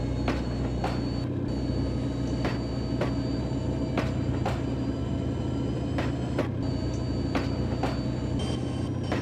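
Passenger train cars rolling past, their wheels clacking over rail joints in irregular pairs of clicks, over a steady low rumble and a faint high steady whine.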